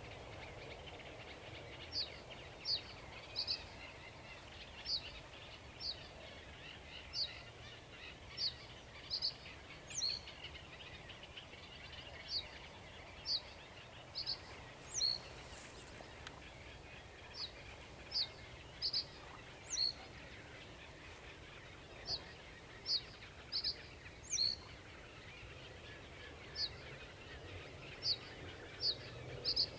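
A songbird repeating short, high, clear notes one at a time, about one or two a second with short pauses, over a steady background hiss.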